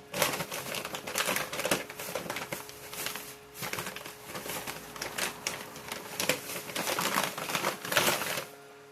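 Chilled rotisserie chicken being cut and pulled apart into pieces: a busy run of irregular crackling and clicking that stops suddenly near the end.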